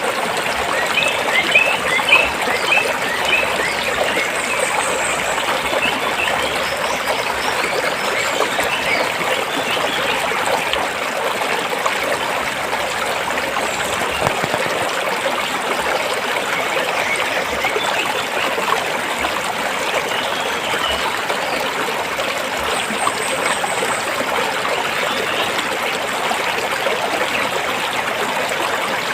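Forest stream flowing and trickling between rocks in a steady, even rush. A few short high chirps sound over it, most of them in the first few seconds.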